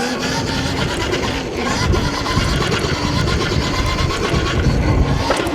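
Stomp Haywire electric dirt bike under throttle in sport mode: the motor whines and the chain drive rattles, with heavy wind buffeting on a helmet-mounted camera.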